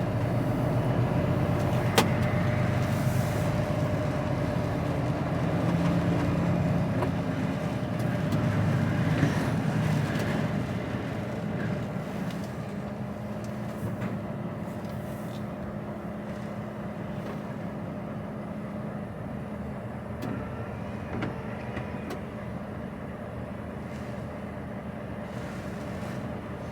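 HGV lorry running, heard from inside its cab: a steady low diesel engine hum, louder for the first ten seconds or so, then settling to a quieter, even drone. A single sharp click about two seconds in.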